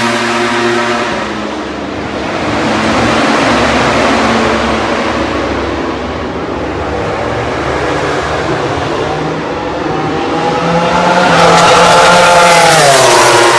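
MotoGP racing motorcycles, 1000 cc four-cylinder prototypes, going past on track at high revs. One engine's pitch falls as it goes by at the start. Near the end another bike passes loudly, its pitch rising as it comes in and then dropping sharply as it goes by.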